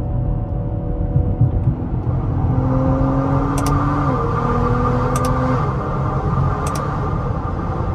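BMW X5 xDrive45e's turbocharged 3.0-litre inline-six pulling under acceleration, over steady road and tyre noise. The engine note rises slowly, drops about four seconds in as it shifts up, then climbs again.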